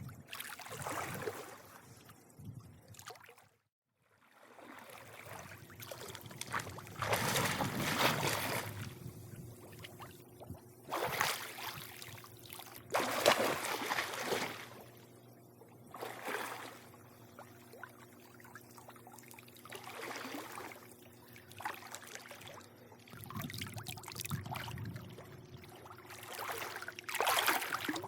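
Swimming-pool water lapping and sloshing in irregular swells every few seconds, over a steady low hum. The sound drops out briefly about four seconds in.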